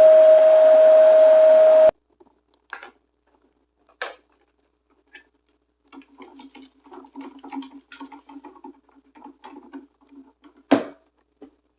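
Shark vacuum cleaner running with a steady whine, switched off about two seconds in. Then come scattered light crackles and ticks, with one sharper snap near the end.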